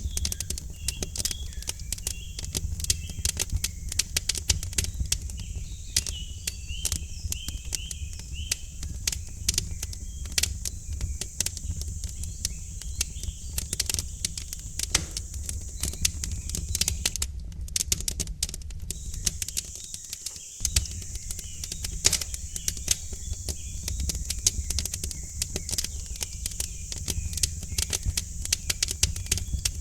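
Wood fire crackling, with frequent sharp irregular pops over a low steady rumble. Birds chirp faintly in the first several seconds.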